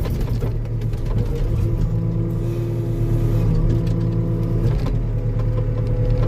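Diesel engine of a compact earthmoving machine running steadily under work, with a higher whine laid over it for a few seconds in the middle.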